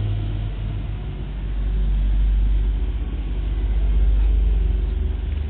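Boat's motor running, a loud low drone whose pitch drops slightly about half a second in and which swells louder twice.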